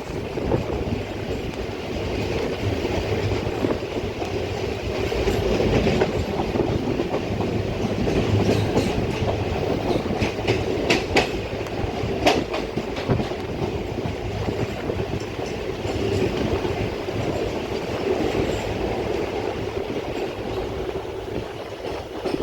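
Running noise of an Indian Railways express train heard from on board: steady wheel-on-rail rumble and clatter from the coaches. A few sharp clicks come about halfway through.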